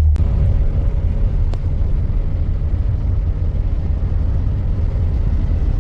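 Motor vehicle running with a loud, steady low rumble.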